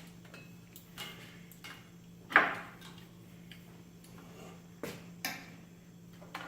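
Scattered light clicks and knocks of hands working with cable ties and load-cell cables, with one sharp clack about two and a half seconds in and a few smaller ones near the end, over a steady low hum.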